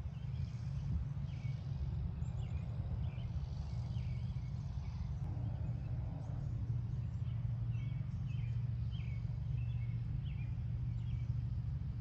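Small birds chirping in short, repeated notes over a steady low background rumble.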